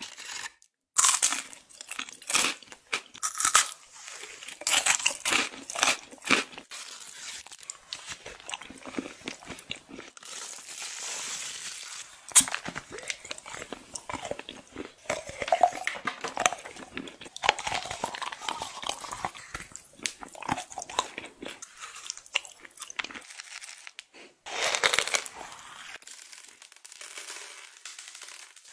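Close-miked eating of chocolate treats: repeated crunchy bites and wet chewing of a Ferrero Rocher and a hollow chocolate teddy bear. Foil wrapper crinkles near the start.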